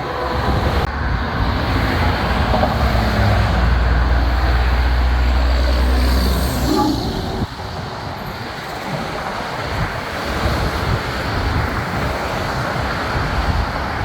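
Heavy truck driving past with a loud, deep engine rumble that fades about halfway through, leaving steady road traffic noise.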